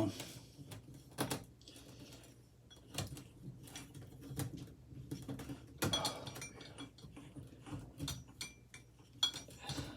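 Light, scattered clicks and knocks of hand tools and metal parts as a ceiling fan is worked on, with a few sharper knocks spread through.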